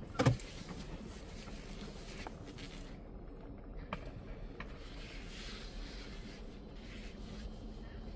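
A single gunshot about a quarter of a second in, sharp and loud, over a steady background hiss, followed by a few faint clicks.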